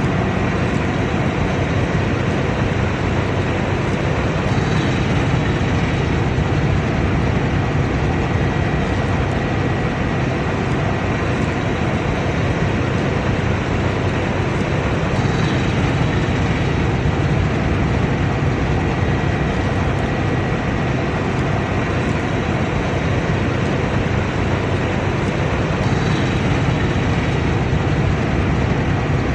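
Combine harvester running steadily under load, a dense even drone of engine and threshing machinery with a faint steady whine over it.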